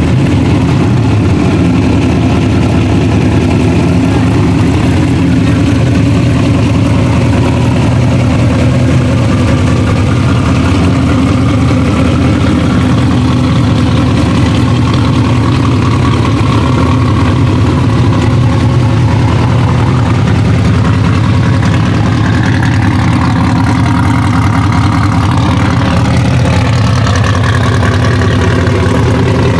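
Ultra4 race car's engine idling steadily and loudly, with a deep, even firing note.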